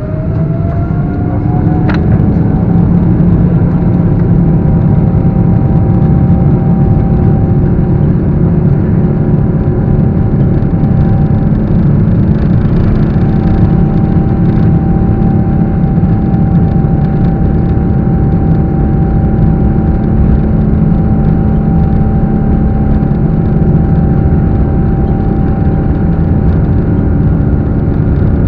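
Boeing 777's jet engines spooling up to takeoff thrust: a whine rises in pitch and the noise grows over the first two seconds, then holds as a loud, steady rumble with a constant high whine through the takeoff run.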